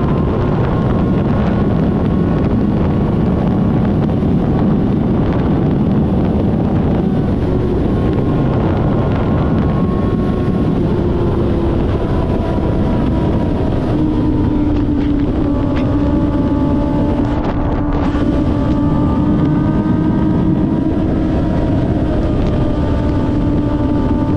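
Kawasaki ZX-6R inline-four engine running at a steady cruise, with wind buffeting the microphone; the pitch steps down slightly about halfway through.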